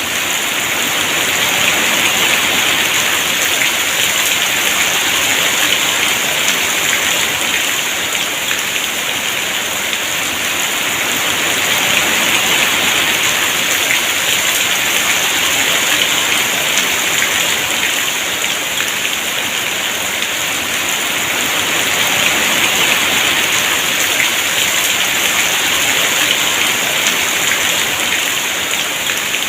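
Heavy rain falling steadily: a dense, even hiss that swells and eases gently every several seconds, with no thunder.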